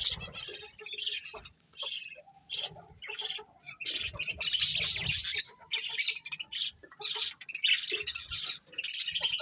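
A colony of budgerigars chattering and chirping in dense, high-pitched bursts with short pauses between them.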